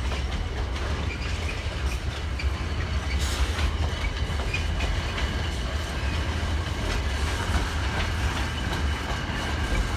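A long container freight train's wagons rolling steadily past, with a deep rumble and the clickety-clack of wheels over rail joints.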